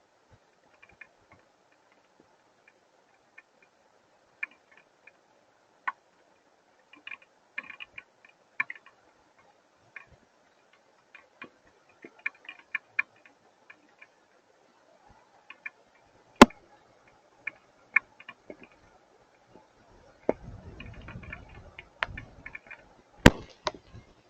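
Hailstones striking, heard as scattered, irregular ticks and clicks with now and then a sharper, louder hit. Near the end a low rumble comes in for a few seconds.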